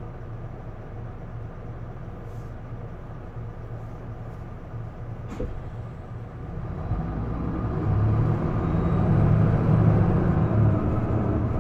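Isuzu Erga PDG-LV234L2 city bus's six-cylinder diesel engine heard from inside the cabin, running low and steady, then pulling harder and growing much louder from about six seconds in as the bus accelerates. A single sharp click about five seconds in.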